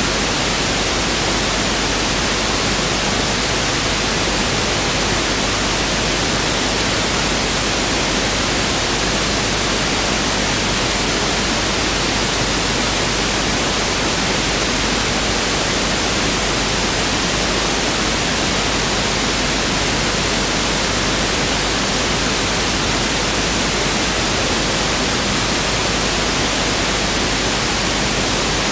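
Pink noise (1/f noise) test signal: a steady, unbroken hiss spread evenly across the whole range, with no change in level.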